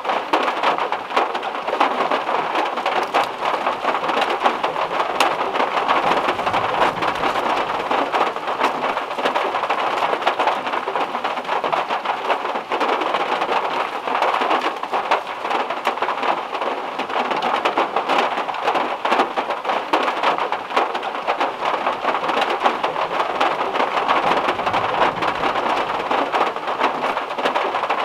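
Heavy rain falling steadily as a dense patter of drops, with faint low rumbles of thunder about six seconds in and again near the end.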